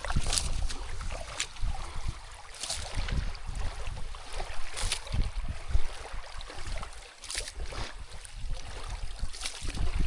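River water sloshing and splashing, with wind buffeting the microphone in a low, uneven rumble and about half a dozen short sharp splashes.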